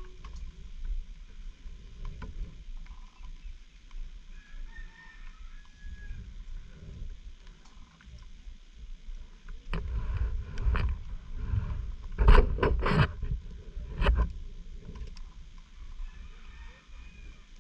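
Low rumble and wind-like noise from a motorcycle ride on a rough track, with a cluster of loud jolts or knocks about ten to fourteen seconds in.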